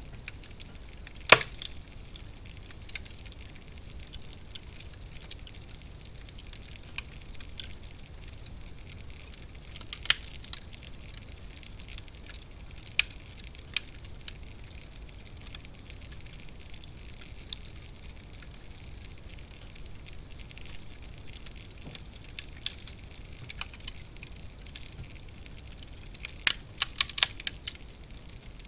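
Wood fire crackling in a fireplace: a steady soft hiss with scattered sharp pops, one loud pop about a second in and a quick run of pops near the end.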